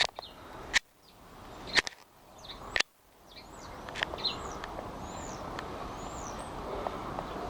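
Small garden birds giving short, high chirps over a steady outdoor hiss. In the first three seconds there are four sharp clicks, about a second apart, each followed by a brief near-quiet gap.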